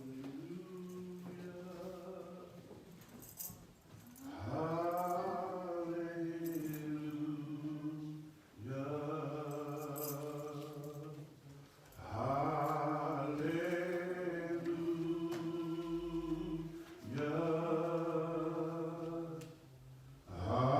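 Singing voice chanting in long held, slow phrases, about five of them, each a few seconds long with brief breath pauses between.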